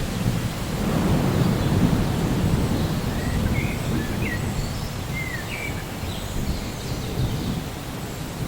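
Steady rain with a low rolling rumble of thunder, and a bird giving short chirps several times in the middle.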